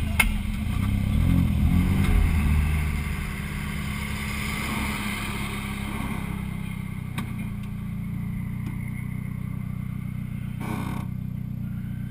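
Car engine running, louder and unsteady for the first few seconds, then idling evenly with a few light clicks.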